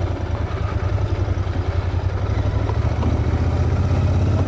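Cafe racer motorcycle engine running steadily at low road speed, heard from the bike while riding: an even low engine note, with a few light clicks about three and four seconds in.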